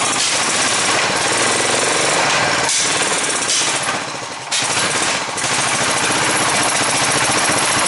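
Suzuki Savage 650's air-cooled single-cylinder engine running with rapid, even firing pulses. It eases off briefly just past the middle, then picks up sharply again as the throttle is blipped.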